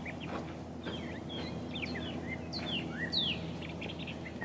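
Wild birds chirping, a quick run of short falling chirps, over a steady low hum.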